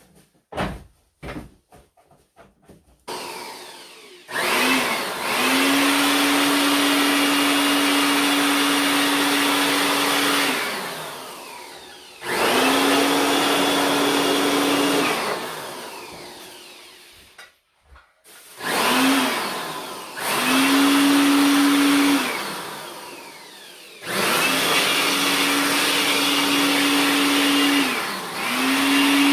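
A small high-speed electric motor tool is switched on and off about five times, each run lasting a few seconds. Its pitch rises as it spins up and falls as it winds down, with a steady hum and a rush of air or noise over it. A few sharp clicks come first.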